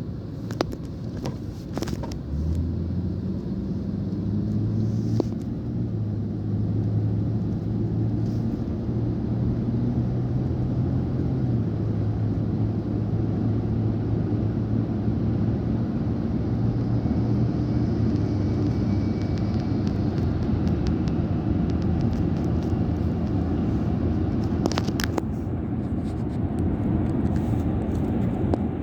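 A motor vehicle running steadily with a low road rumble. A steady engine hum comes in about two seconds in, and there are a few sharp clicks or rattles near the end.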